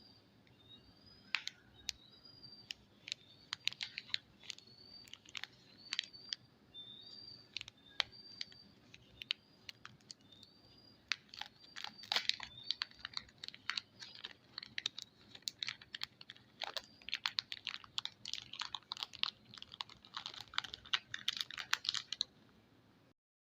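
Soap packaging being handled and opened close to the microphone: a run of sharp clicks and crackles, growing denser in the second half and stopping abruptly near the end. A bird chirps repeatedly in the background, about once a second.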